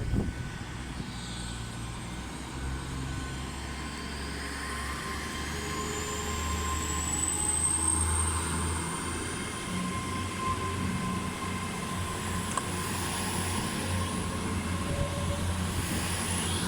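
Diesel multiple-unit train pulling away from the platform, its engine note growing louder, with a thin high whine that rises in pitch as it gathers speed. A brief knock comes at the very start.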